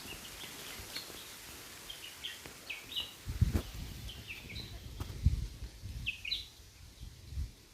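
White-throated fantail calling: short, sharp notes in little clusters, repeated every second or so. A few dull low thumps of wind or handling on the microphone come through as well.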